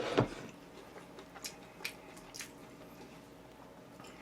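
Close-miked eating: a sharp mouthful or bite just after the start, then a few light clicks and quiet chewing.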